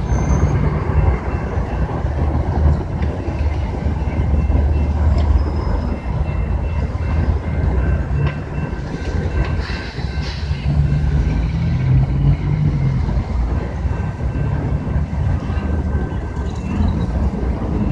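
Train running on the line: a loud, steady low rumble.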